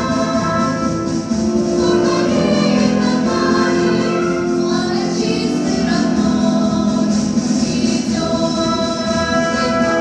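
Children's vocal ensemble singing a march song in chorus over a pop ensemble's instrumental backing; the voices come in about two seconds in and give way to the instruments near the end.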